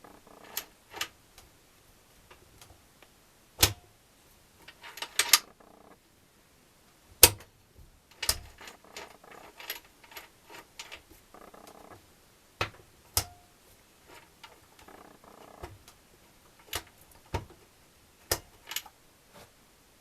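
Small-engine parts and hand tools being handled during engine assembly: irregular metal clicks, clinks and knocks, with a short ringing after a sharp strike about four seconds in and again about thirteen seconds in, and light scraping between them.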